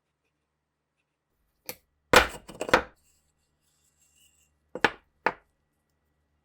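Sharp knocks and clatter of tools and parts against a workbench: one knock, a quick burst of clattering knocks, then two separate knocks.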